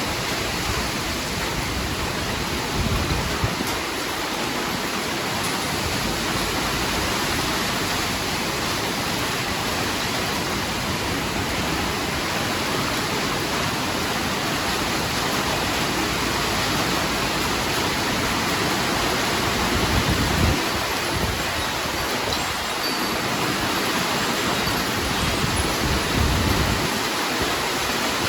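Heavy rain falling steadily in a constant hiss, with a few brief low rumbles about three seconds in, around twenty seconds in and near the end.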